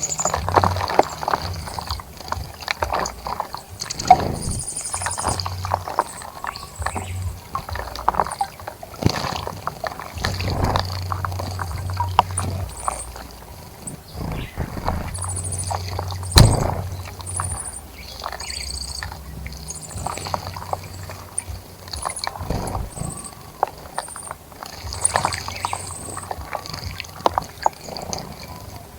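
Birds bathing in a bird bath: irregular splashing and fluttering in shallow water, with a few sharp knocks and short high chirps.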